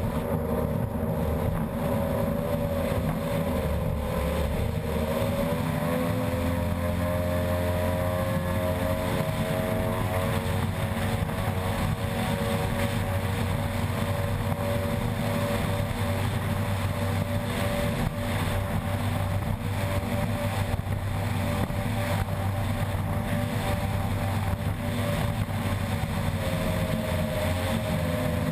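Unlimited outboard ski-race boat's engine running hard at speed, its pitch rising about five seconds in and holding steady after.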